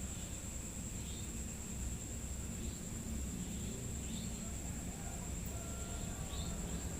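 Night insects, crickets, trilling in one steady high-pitched tone, with faint short chirps about once a second over a low rumble of background noise.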